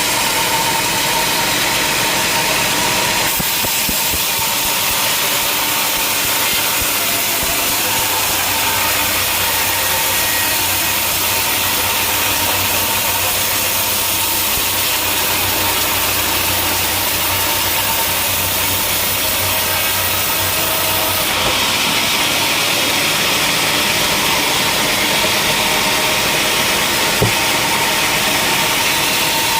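Sawmill machinery running steadily, a loud, even mechanical noise of saw and motor, brighter and hissier for most of the stretch between about three and twenty-one seconds in, with a single small knock near the end.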